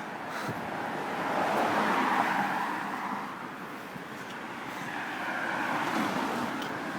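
Road traffic: cars passing, the tyre and engine noise swelling twice, once about two seconds in and again near the end.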